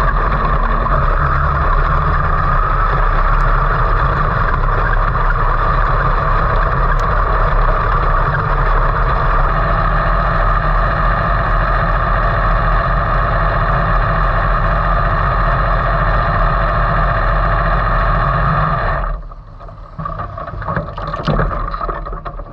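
305 sprint car's V8 engine idling steadily, heard from inside the cockpit, at an even pitch with no revving; it cuts off about nineteen seconds in, leaving a few light clicks and rattles.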